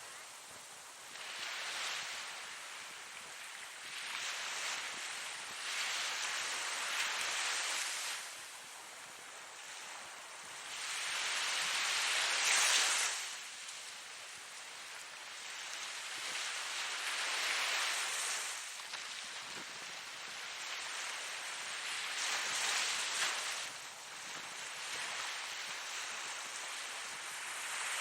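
Ocean surf: waves breaking and washing in, the hiss of water swelling and easing about five times, with the loudest break about twelve seconds in.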